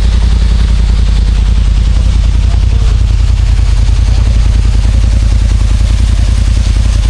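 Side-by-side UTV engine running steadily while driving, a loud low rumble with rapid, even firing pulses.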